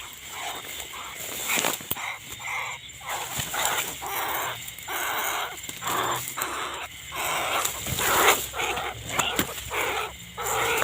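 An animal calling over and over, in short calls about a second apart.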